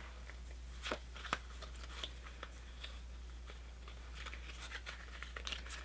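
Faint clicks and light rustling of Pokémon trading cards being handled and flipped through, with a sharper click about a second in, over a low steady hum.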